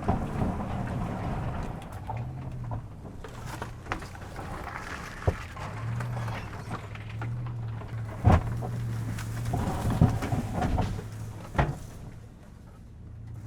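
Branches and brush scraping and snapping against a truck as it pushes through a bush, with four sharp cracks spread across the stretch, over a low hum that comes and goes.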